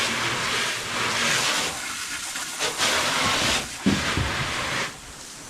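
A jet of water hissing as it is sprayed over a race car to wash off mud and dust, in several spurts that start and stop. There is a short knock about four seconds in, and the spray stops about five seconds in.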